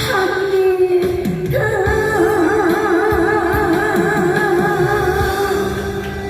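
A singer holds the song's final note with a wide, wavering vibrato over a backing band track. The note starts about a second and a half in and fades out near the end.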